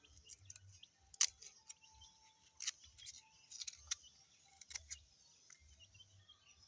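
Knife peeling cassava roots: irregular sharp clicks and scrapes of the blade cutting through the tough peel, the loudest about a second in.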